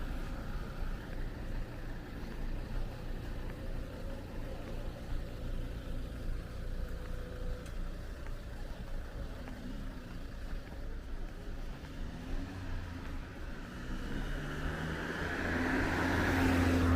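Street traffic: a car's engine is heard throughout, and a car draws close and passes, loudest near the end.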